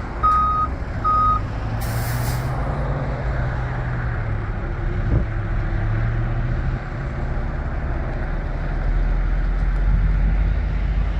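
1986 International 1954 flatbed truck reversing: its backup alarm beeps twice, then its air brakes give a short hiss about two seconds in. After that the engine runs steadily, its pitch drifting up and down and growing louder near the end.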